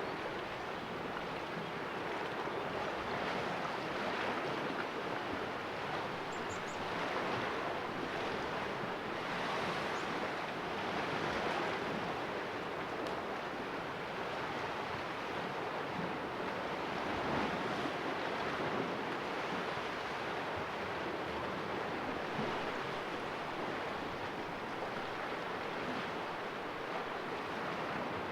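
Calm sea waves splashing and washing in a cove: a steady wash that swells and eases every few seconds.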